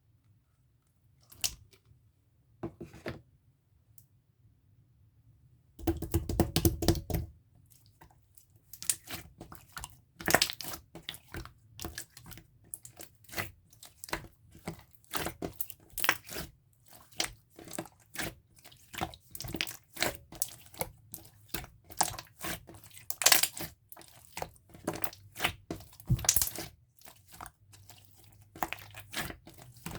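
Clear, jelly-textured slime being squished and stretched by hand, making wet sticky pops and crackling clicks. A few isolated pops at first, then from about six seconds in a dense, irregular stream of them.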